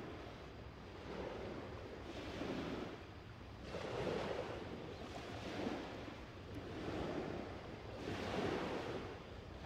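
Small waves washing onto a sandy beach, the surf swelling and falling back every couple of seconds.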